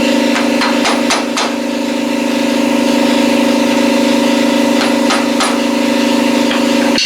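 A motor running steadily at one constant pitch, with a few light knocks over it in the first second and a half and again about five seconds in.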